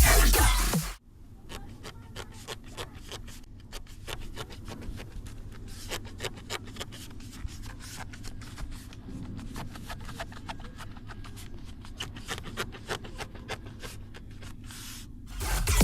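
Interior plastic trim of a Toyota Camry SV41 being handled and rubbed, giving many faint irregular clicks and rubbing scrapes over a low steady hum. Music cuts out about a second in and comes back near the end.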